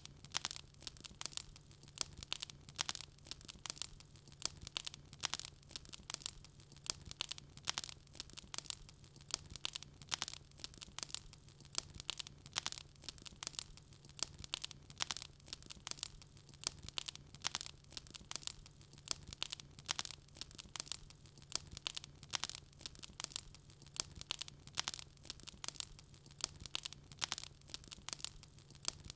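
Wood fire crackling in a fireplace: dense, irregular sharp pops and snaps from the burning logs, over a faint steady low hum.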